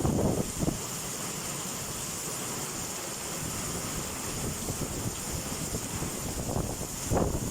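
Squall wind buffeting the microphone over a steady hiss of storm rain, with strong gusts right at the start and again near the end.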